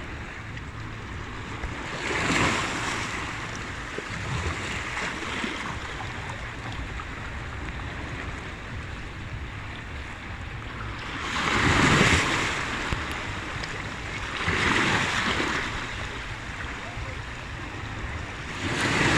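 Sea waves washing onto the shore: a steady wash of surf, with waves breaking and swelling up about two seconds in, twice in the second half, and again at the end, under a low wind rumble on the microphone.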